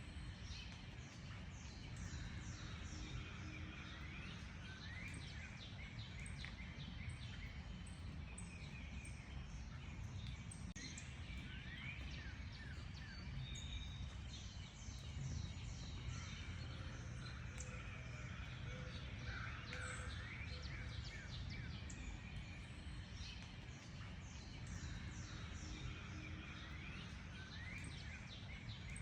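Several small birds chirping and whistling at once, many short quick notes overlapping, over a steady low background rumble.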